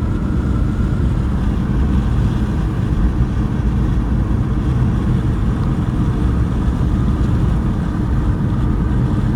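Steady road and engine noise inside a moving car, an even low rumble without change.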